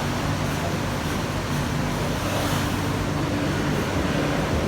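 Cable car station machinery running with a steady low hum and rumble.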